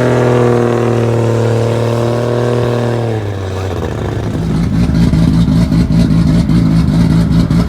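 Car engine revved up and held at high revs for about three seconds, then dropping away. From about four seconds in it settles into a lower, rough, pulsing engine note with rapid crackles.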